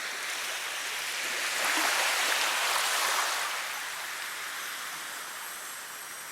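Rushing water: a steady hiss that swells louder for a second or two near the middle, then eases back.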